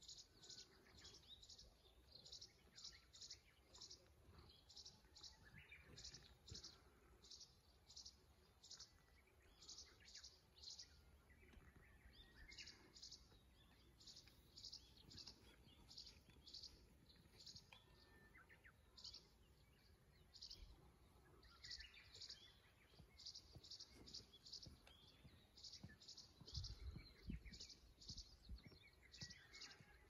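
Faint birdsong: one high, dry chirp repeated over and over in quick runs of three to five, with softer calls from other birds underneath. There is a brief low rumble near the end.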